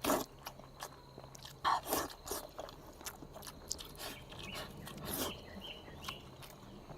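Close-up eating sounds of a person chewing braised pork: wet smacks, sucking and small clicks of mouth and chopsticks, with louder bursts around two and five seconds in.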